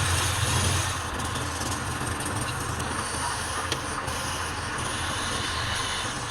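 Wood lathe running steadily, its motor humming low under a continuous scraping hiss from the spinning workpiece being worked. The hum is strongest for the first second.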